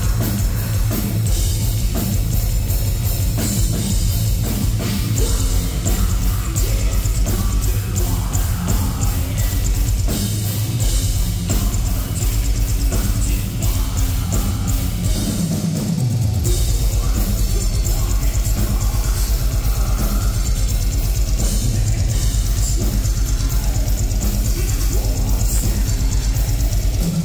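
Heavy metal band playing live, loud and dense, with fast, driving drums; the low end drops out briefly about halfway through before the full band comes back in.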